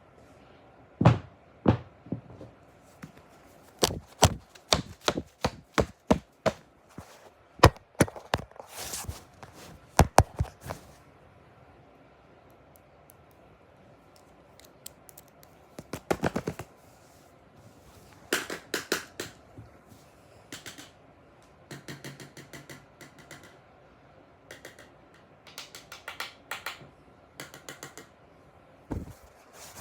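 Irregular sharp taps and clicks, some single and loud, some in quick clusters, with stretches of softer rapid clicking in between.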